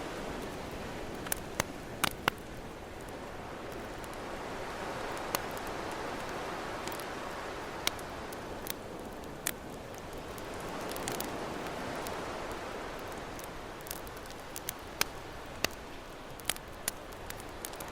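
Campfire crackling with sharp, irregular pops over the wash of ocean waves, which swell and fade slowly, one swell about five seconds in and another about eleven seconds in.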